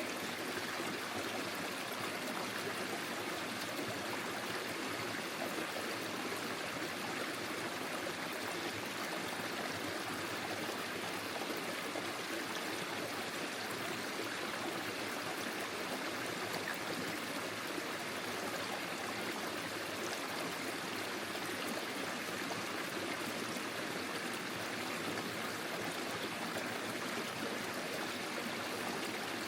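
Forest stream flowing over stones, a steady babbling and trickling of water with no change in level.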